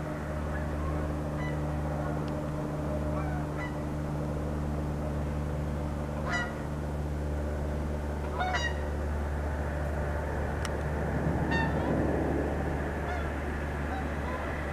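A few short, harsh honking calls from birds, two clearer ones about six and eight and a half seconds in and fainter ones later, over a steady low hum. A brief swell of rushing noise comes about eleven seconds in.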